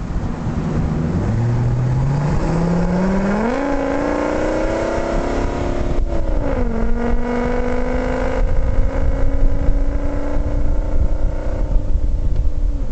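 Ford F-350's 6.8-litre Triton V10 engine, on an LPG conversion, accelerating: the revs climb steadily for about five seconds, drop with a gear change about six seconds in, then climb slowly again. A low wind rumble on the microphone sits under it.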